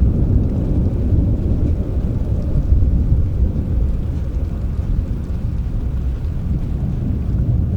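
A long, low rolling rumble of thunder over steady rain, swelling a little about three seconds in.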